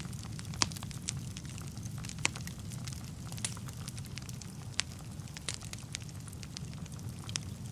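Wood fire burning in a fireplace: a steady low rumble of the flames with irregular sharp crackles and pops from the burning logs, two louder pops at about half a second and two seconds in.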